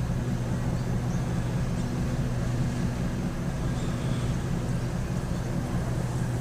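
Tour boat's engine running steadily, a low even drone.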